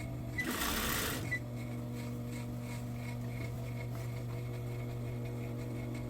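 Sewing machine running steadily, stitching fabric, with a brief hissing burst about half a second in.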